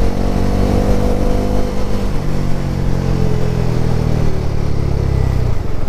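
Bajaj Pulsar NS400Z's 373 cc single-cylinder engine, its note falling steadily as the bike slows under braking, stepping lower about two seconds in and dropping away near the end, over wind and road noise.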